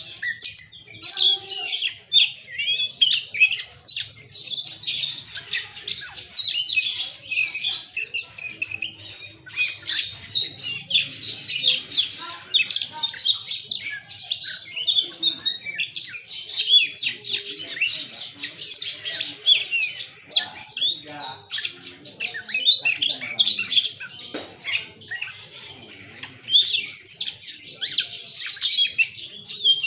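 Oriental magpie-robin (kacer) singing a long, rapid, varied song packed with imitated calls of other birds, with a couple of brief pauses.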